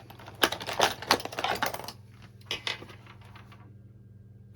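Quick hard plastic clicks and clatter as the casing of a battery-powered handheld vacuum cleaner is handled and pried apart, thick for about two seconds, then a few more clicks before it goes still.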